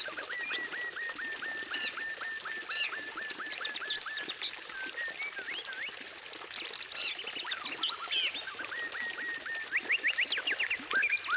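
White-rumped shama (murai batu) song: a fast run of short repeated notes, about seven a second, for the first few seconds and again near the end, mixed with varied whistles and chirps.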